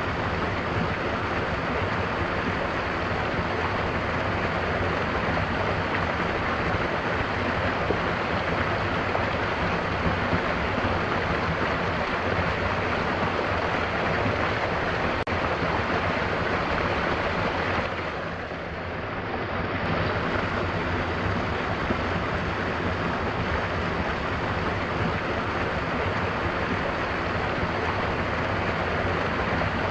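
Mountain waterfall rushing steadily, with a short dip in the higher part of the sound a little past halfway.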